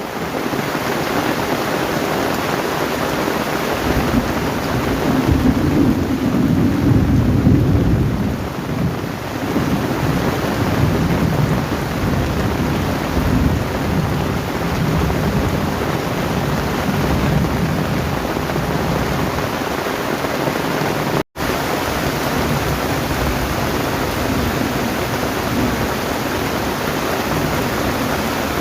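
Heavy rain pouring steadily, with a low rumble of thunder swelling about five seconds in and fading by ten. The sound drops out for an instant about two-thirds of the way through.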